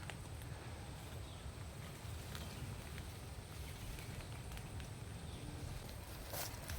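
Outdoor ambience: a steady low rumble with a few faint taps, and a sharper knock near the end.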